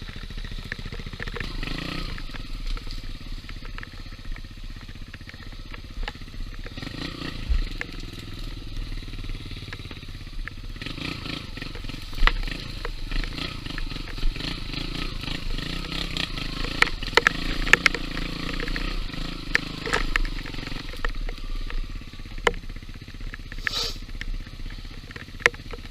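Yamaha XTZ125 trail bike's single-cylinder four-stroke engine running as it is ridden along a dirt trail, the engine note rising and falling with the throttle. Scattered sharp clicks and knocks from the bike over rough ground.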